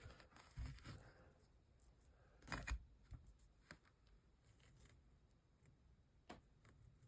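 Near silence with a few faint, short handling sounds, small clicks and rustles, the loudest about two and a half seconds in.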